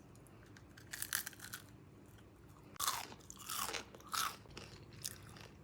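A person biting into and chewing a crispy air-fried lattice potato chip: irregular crunches, strongest a little before the middle and a few more about four seconds in.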